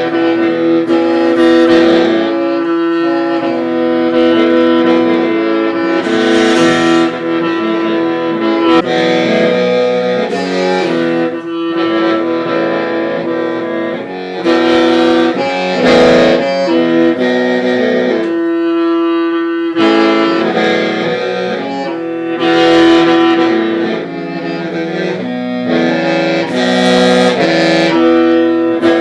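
Hmong qeej, a bamboo free-reed mouth organ, being played. A steady drone tone is held under shifting chords from several pipes at once, with short breaks between phrases.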